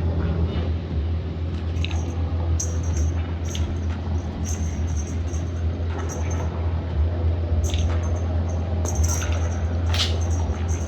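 Short, light metallic jingles and clinks, about a dozen scattered irregularly, from a cat toy being batted and played with, over a steady low hum.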